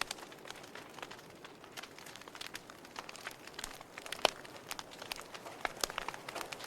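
Wood fire crackling in a fireplace: irregular small pops and snaps over a faint hiss, with one sharper pop about four seconds in.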